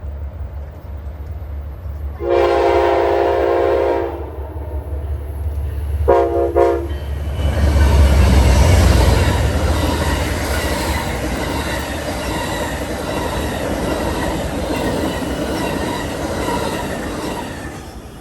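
Freight train horn sounding one long blast and then a short one, followed by the locomotive passing close and the cars rolling by with steady wheel clatter that fades near the end.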